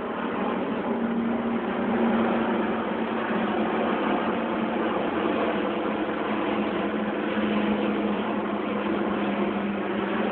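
Airbus A380's four jet engines running: a steady rush of noise with a low hum underneath.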